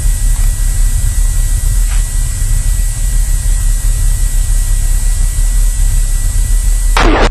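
Cessna 172's engine and propeller running steadily, a strong low drone with a hiss over it and a thin steady high tone. Near the end it cuts off abruptly into music.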